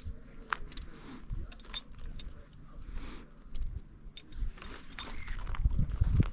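Metal climbing hardware, carabiners and gear on the harness, clinking in scattered sharp chinks as the climber handles the rope at the anchor. Rumbling wind and handling noise on the microphone run underneath, busier near the end.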